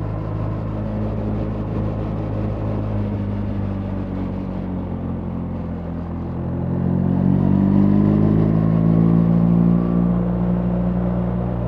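BMW R 1300 GS boxer-twin engine running under way, its pitch and loudness rising about six seconds in as the bike accelerates, then holding at the higher pitch.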